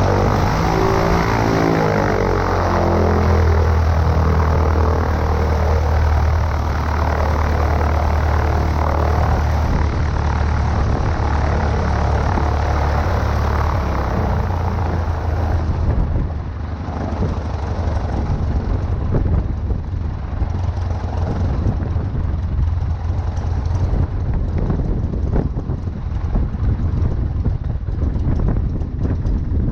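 Cessna 140A's air-cooled flat-four engine and propeller running steadily. About sixteen seconds in the engine note drops away and a rougher rumble with irregular knocks takes over.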